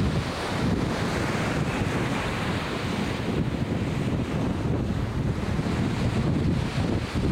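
Atlantic Ocean surf washing steadily, mixed with a heavy low rumble of wind buffeting the microphone.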